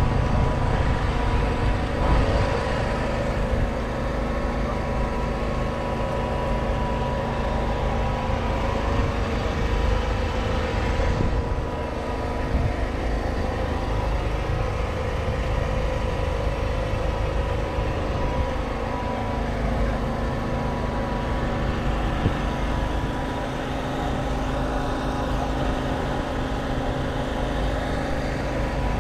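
Diesel tractor engine running steadily at a constant speed, with a low hum.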